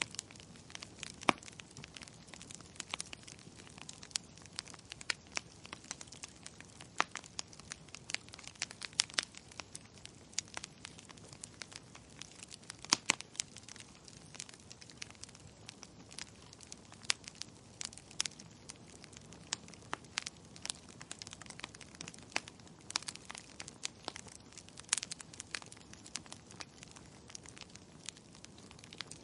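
Burning firewood crackling: irregular sharp pops and snaps, several a second, some louder than others, over a soft hiss of the fire.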